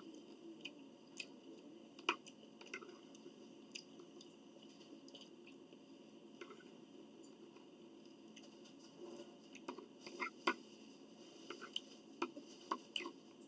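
Close-up eating sounds: chewing with small, irregular clicks and smacks, coming more often in the last few seconds, over a faint steady hum.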